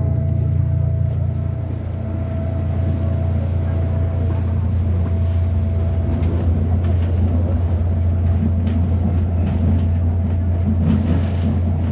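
MTR Airport Express electric train running on the line: a steady low rumble with a thin whine that fades out about six seconds in.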